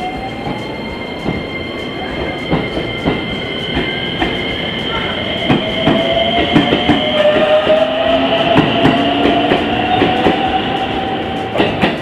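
Electric commuter train moving through a station: its motor whine rises in pitch twice as it gathers speed, wheels clack over rail joints, and a high steady whine or squeal runs over it.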